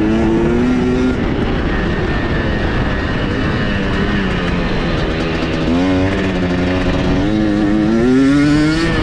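KTM dirt bike engine running hard around a motocross track, its pitch climbing under throttle in the first second, holding, dropping and shifting about six seconds in, then climbing again near the end.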